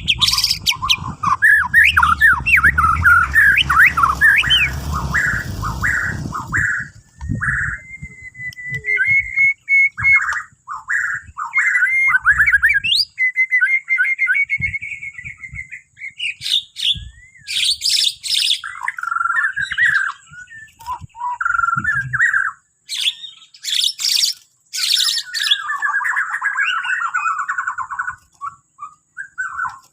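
White-rumped shama (Bornean murai batu) singing a long, varied song of whistled phrases, with sharp high chirps mixed in during the second half. A low rumble runs under the first few seconds.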